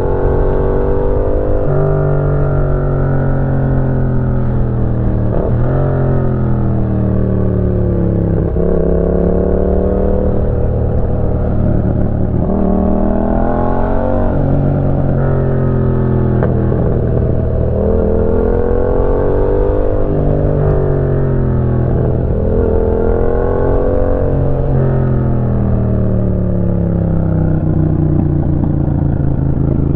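Yamaha MT-07's 689 cc parallel-twin engine breathing through a Roadsitalia aftermarket exhaust, the motorcycle under way with the revs rising and falling over and over, about every four seconds, as the rider accelerates and then eases off.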